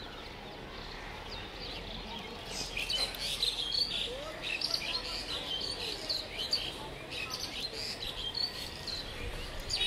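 Small birds chirping busily: many short, high chirps overlapping, starting about two and a half seconds in and carrying on, over a steady outdoor background.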